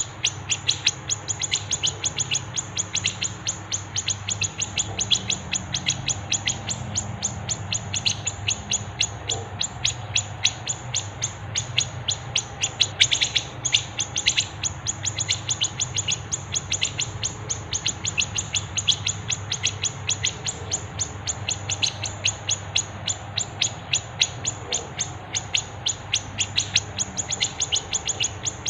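Small songbirds chirping in a rapid, unbroken stream of sharp, high notes, about three or four a second, over a faint steady low hum.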